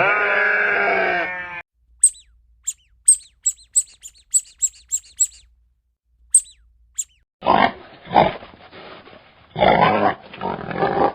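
A drawn-out bleat ends. Then comes a run of about a dozen short, very high chirps, then three rough grunts, each about half a second to a second long.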